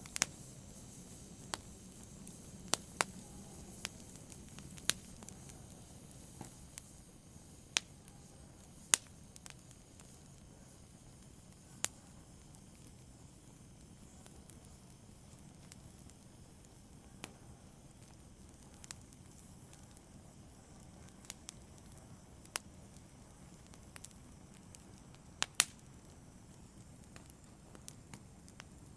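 Fire burning in a fireplace, crackling with irregular sharp pops over a soft steady hiss. The pops come more often in the first third and thin out after that.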